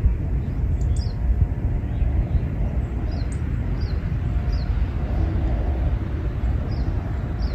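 Outdoor park ambience: a steady low rumble with short, high, falling bird chirps repeated every second or so.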